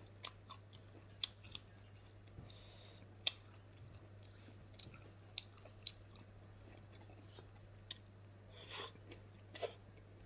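A person chewing food close to the microphone: sharp mouth clicks and lip smacks at irregular intervals, over a steady low hum.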